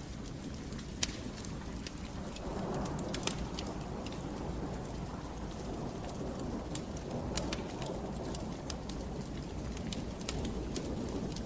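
Wood fire in a fireplace crackling: irregular sharp pops and snaps over a low, steady rush of burning.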